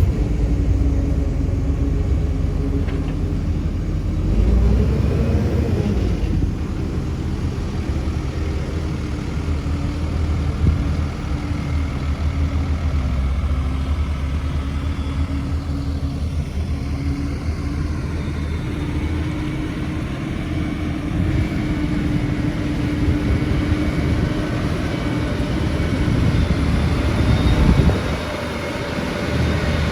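Heavy diesel construction machinery running steadily: a deep engine rumble with a steady droning tone. Near the end the low rumble briefly drops away.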